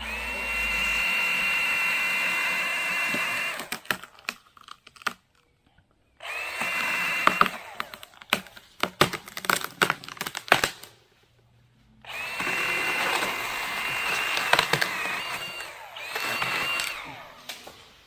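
Milwaukee M18 Hatchet battery pruning saw running in three bursts of steady high whine as it cuts through a limb; the last burst is the longest. Between the second and third bursts comes a flurry of sharp cracks and snaps as wood breaks.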